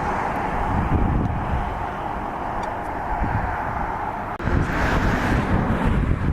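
Wind buffeting the microphone over a steady background rumble, briefly dipping about four seconds in.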